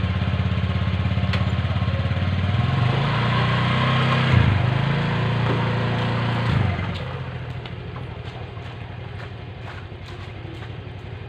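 An engine runs loud and close, rising in pitch around the middle. It then fades away after about seven seconds to a faint hum.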